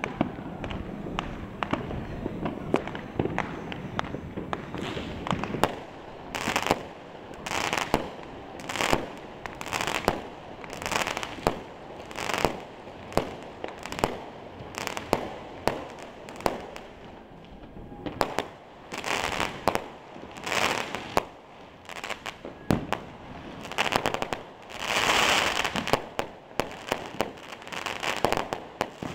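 Many fireworks and firecrackers going off near and far across a city: a steady run of irregular sharp bangs, some aerial shells bursting into crackling stars, with a longer crackling burst near the end.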